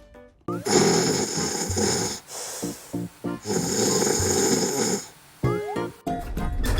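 Cartoonish snoring, two long drawn-out snores with short breaths between, over background music. A low steady rumble sets in near the end.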